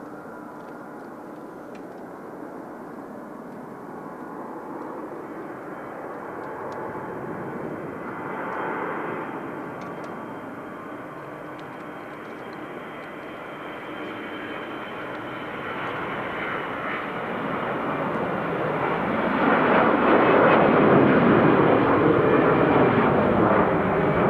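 Jet engines of an Airbus A321-211 airliner (CFM56 turbofans) running as the aircraft passes. The sound builds slowly, swells briefly about a third of the way in, and is loudest near the end, where the tone sweeps and shifts as the aircraft goes by.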